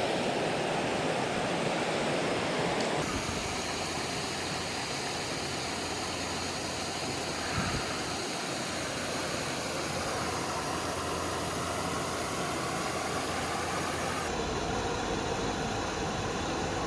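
Steady rush of water from a small creek waterfall, an even hiss with no pauses. Its tone shifts abruptly twice along the way.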